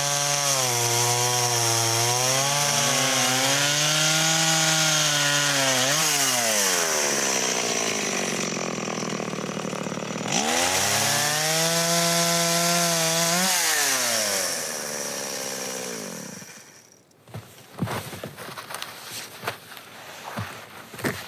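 Two-stroke chainsaw running and cutting wood, its engine note sagging under load and rising again several times, then winding down and stopping near the end. A few light knocks and steps follow.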